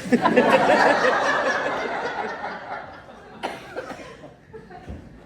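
Audience laughing, loudest at once and dying away over about three seconds, with a single knock partway through.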